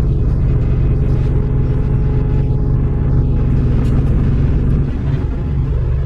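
Steady low rumble of a running road vehicle's engine, easing slightly about five seconds in.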